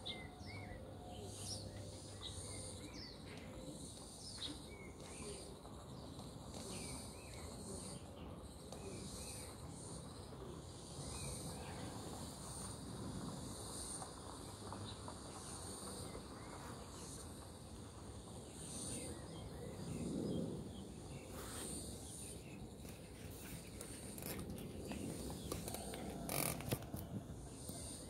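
Oriental magpie-robin singing in short, faint whistled phrases over a steady, high, pulsing insect drone. There are a couple of soft knocks near the end.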